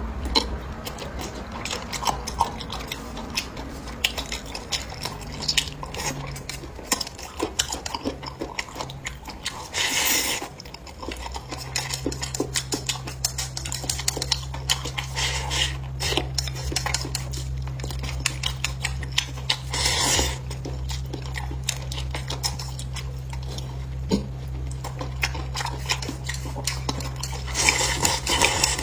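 Eating utensils clicking and clinking against dishes and bowls during a meal, with three short louder bursts of noise about ten seconds apart. A low steady hum comes up about a third of the way through.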